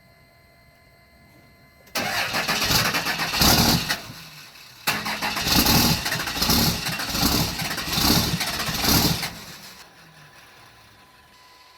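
24-valve Cummins 5.9-litre inline-six diesel being cranked by the starter on a cold start after sitting three days. It turns over in two tries, about two seconds and then about four seconds, with a rhythmic chug, and does not catch.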